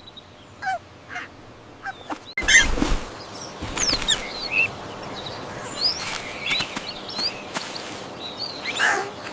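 Cartoon bird calls: honking, quacking calls and short high chirps scattered through, with a sudden loud thump and rush of noise about two and a half seconds in.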